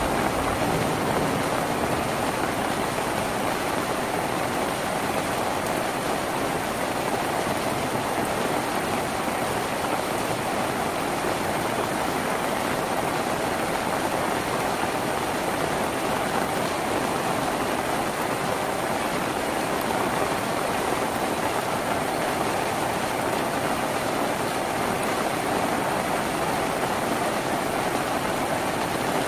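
Steady rain falling on a tin roof, an even, unbroken hiss.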